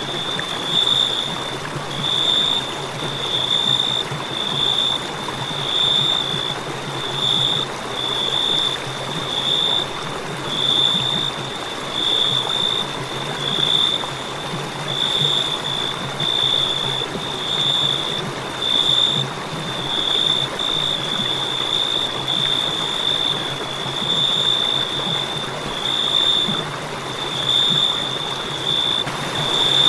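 Crickets chirping: a high-pitched trill that pulses on and off at an even pace, a little over once a second, over a steady hiss.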